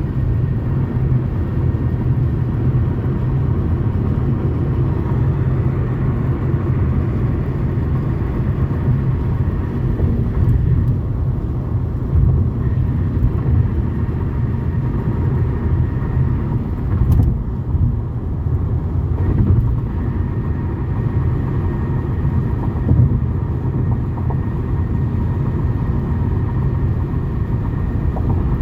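Steady road and engine rumble inside a moving Toyota Camry's cabin, with a few light, scattered knocks from the rattling driver's door.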